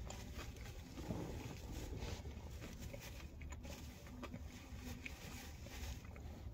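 A person chewing food with the mouth closed, with soft, irregular mouth clicks over a low, steady hum.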